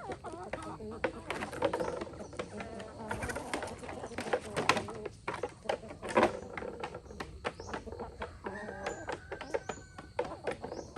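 Chickens clucking, with many sharp clicks and taps throughout and short high chirps near the end.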